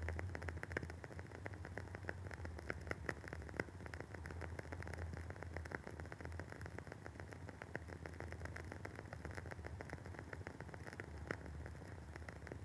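Wooden wick of a WoodWick candle burning with a dense, irregular crackle of small pops and snaps, over a steady low hum.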